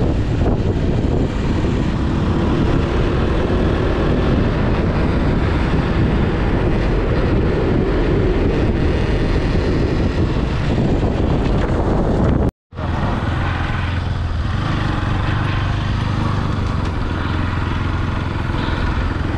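Motorcycle running on the move, its engine mixed with steady wind noise on the microphone. The sound drops out for an instant about two-thirds of the way through, then carries on the same.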